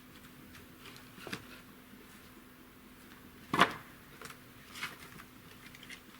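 A few scattered short knocks and clicks, the loudest about three and a half seconds in, over a faint steady hum.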